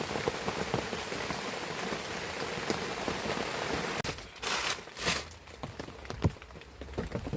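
Heavy rain pouring down in a steady hiss. About four seconds in it turns thinner, with scattered drips and two short louder rushes of hiss.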